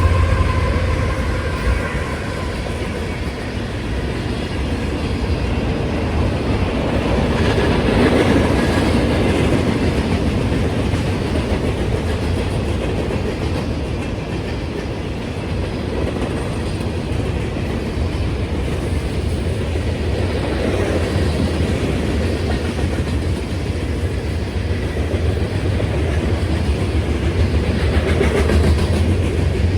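CSX manifest freight train rolling past: the locomotive horn's chord fades out in the first second, then a steady rumble and clatter of freight-car wheels on the rails, swelling and easing a little as the cars go by.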